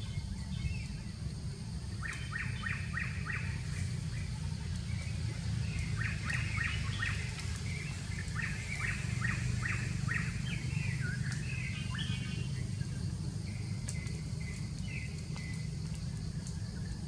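Birds chirping in quick runs of short, repeated notes, several series a few seconds apart, over a steady low rumble.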